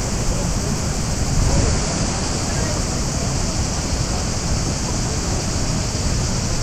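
Steady rushing of water from the Krka waterfalls, an even unbroken roar of falling water.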